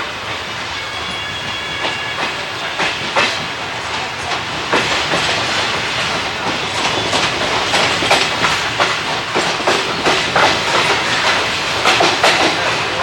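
Passenger train of ICF coaches running on the track, wheels clattering over rail joints in a stream of clicks over a steady rumble. It gets a little louder and busier about five seconds in, and faint high steady tones sound in the first few seconds.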